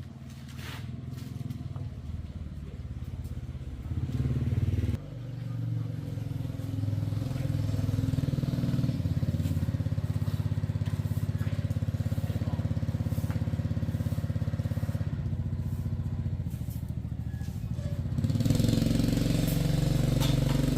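Motorcycle engine running, louder for about a second around four seconds in before dropping back suddenly, then running steadily and growing louder again near the end.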